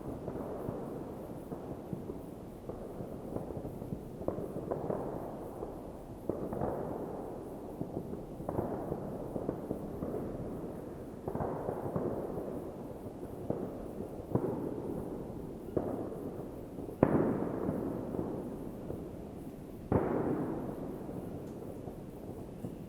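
New Year's Eve fireworks going off at a distance: a continuous rumble of muffled bangs, each trailing off in a long echo. Two louder, sharper bangs stand out near the end.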